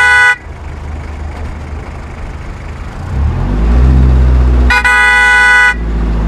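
A truck horn sounds briefly at the start and again for about a second near the end, over a low engine rumble that grows louder in the second half.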